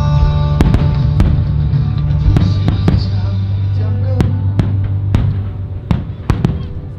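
Fireworks going off in a quick, irregular series of sharp bangs over show music playing steady held chords with a strong bass.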